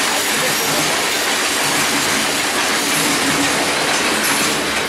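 Freight train cars rolling past, a steady loud noise of steel wheels running on the rails.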